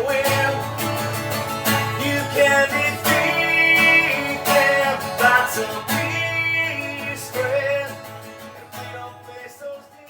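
Acoustic guitar strumming the closing bars of a song, fading out near the end.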